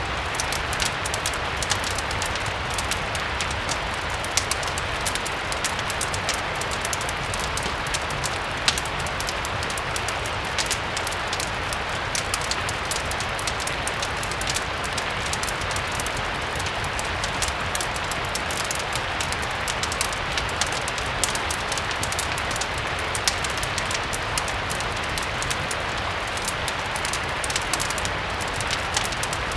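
Steady rain falling, with many small sharp clicks and crackles scattered through it, as of a wood fire burning.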